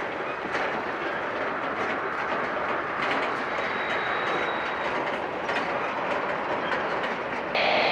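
Freight train tank cars rolling slowly past, steel wheels rumbling and clicking over the rail joints.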